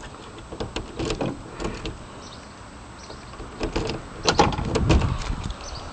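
Rear door latch and handle of a 2001 Ford E-350 van being worked: scattered clicks, then louder clicks and clunks in the last two seconds.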